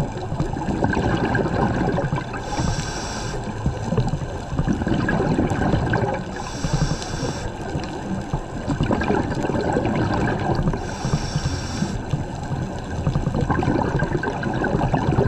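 A scuba diver breathing through a regulator underwater: a hiss comes about every four seconds over a steady gurgling rumble of bubbles and water.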